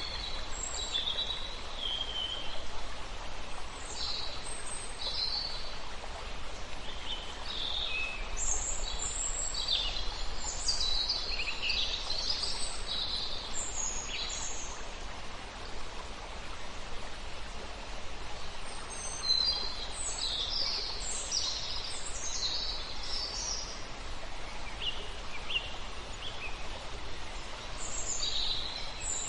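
Songbirds chirping and trilling over the steady rush of a river. The calls come in flurries, thinning out for a few seconds around the middle.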